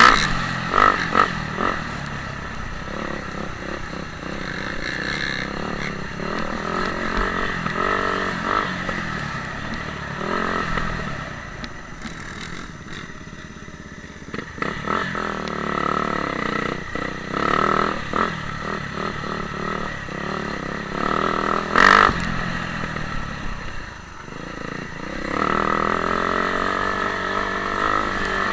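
Motocross dirt bike engines revving up and down on the track, the pitch rising and falling as the bikes accelerate and back off, with a sharp knock about 22 seconds in.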